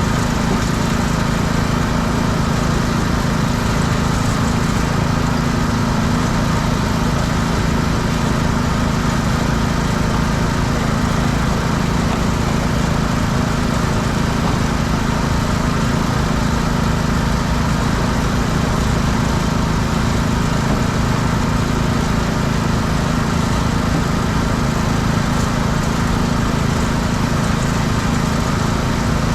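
Pressure washer's small engine running steadily at constant speed.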